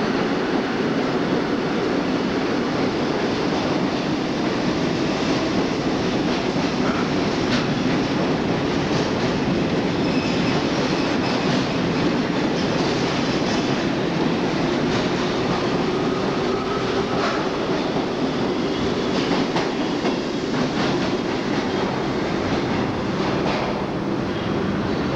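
New York City subway work train of R22 and R30 work motors hauling refuse flat cars, running along the rails with a steady rumble and frequent clicks of wheels over rail joints.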